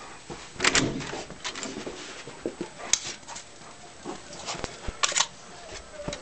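Scattered knocks, clicks and rustling as two black Labradors are let out, with louder clusters about a second in, about three seconds in and about five seconds in; PANN hears this as dog sounds with something of a door.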